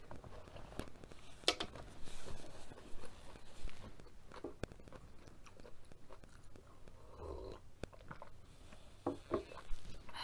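Close-miked chewing of a mouthful of food, with wet mouth smacks and small clicks scattered throughout. About seven seconds in comes a sip of coffee from a mug.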